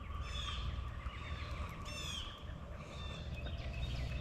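Wild birds calling, with two quick series of downward-sweeping chirps about half a second and two seconds in, over a low rumbling background.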